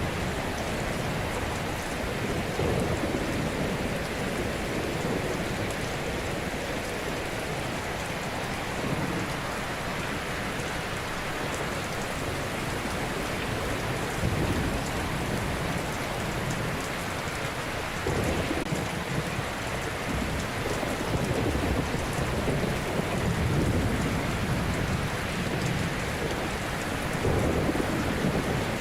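Ocean waves breaking and washing onto a shore: a steady rushing hiss, with a low surge every few seconds as a wave comes in.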